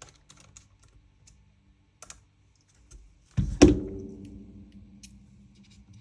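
Small clicks of metal gun parts and tools being handled, then about halfway through a single loud metallic knock that rings and fades over a couple of seconds, as of a metal tool or part set down hard on the work surface.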